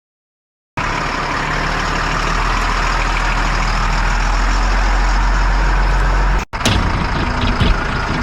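Heavy diesel equipment engine running steadily with a deep hum, starting abruptly about a second in. It cuts off suddenly about six and a half seconds in, and a more uneven sound follows.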